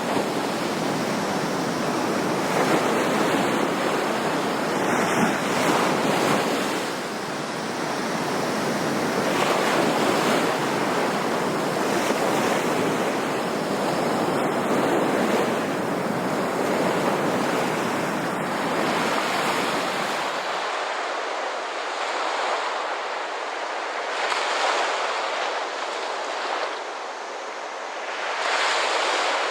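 Ocean surf washing in with gentle swells and fades. About two-thirds of the way through, the sound changes abruptly to a thinner wash without the low rumble.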